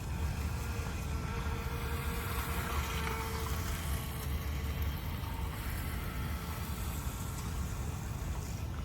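Twin electric motors of an RC speedboat whining faintly and steadily out on the water, most clearly in the middle stretch, under a steady low rumble of wind on the microphone.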